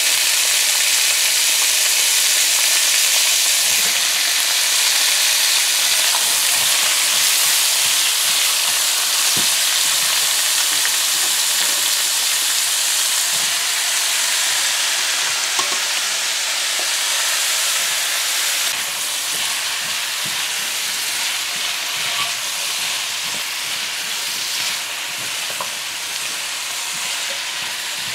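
Freshly added pumpkin strips frying in hot oil in a nonstick pan: a steady sizzle that slowly eases off, with light scrapes and taps of a silicone spatula as the pumpkin is stirred.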